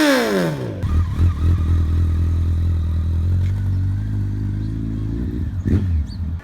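Motorcycle engine revved sharply, its pitch falling quickly back to a steady idle, then blipped briefly once more near the end.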